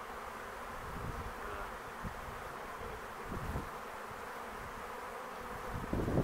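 Honey bee swarm buzzing: a steady, even hum of many bees in flight around the swarm being collected. A rush of wind on the microphone comes in at the very end.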